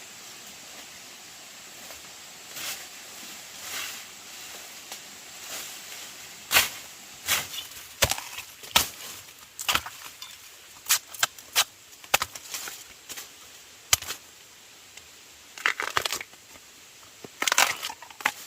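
A run of irregular sharp knocks and clicks, some in quick clusters, over a steady hiss.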